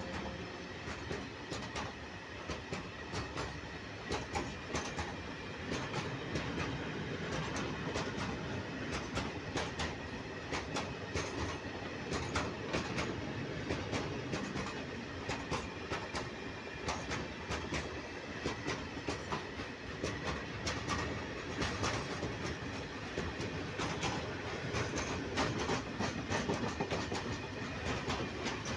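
Freight train of open gondola wagons rolling past at close range: a steady rumble with a fast, irregular run of wheel clicks as the wheelsets pass over rail joints.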